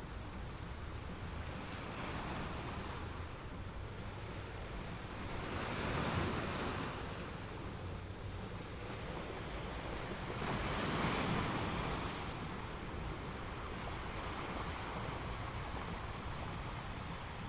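Caribbean Sea waves breaking and washing on a beach, a steady surf with two louder waves about six and eleven seconds in. A low rumble underneath, with some wind on the microphone.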